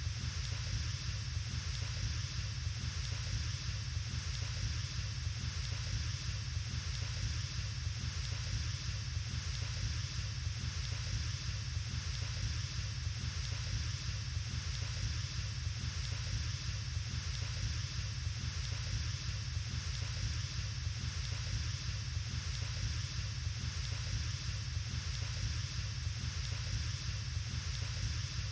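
Wood fire burning in a fireplace, a steady even hiss.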